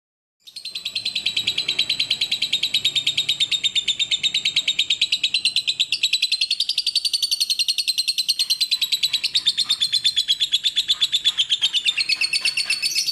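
Lovebird singing one long, unbroken trill of very rapid high chattering notes, starting about half a second in; the pitch dips slightly near the end.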